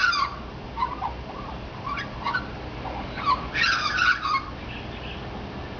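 Australian magpie singing: rich warbled phrases, a loud one at the start and another, longer one about three and a half seconds in, with softer scattered notes between.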